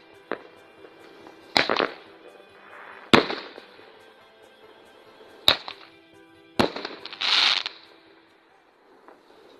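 New Year fireworks going off: five sharp bangs spaced a second or two apart, the one about seven seconds in followed by a half-second hissing crackle.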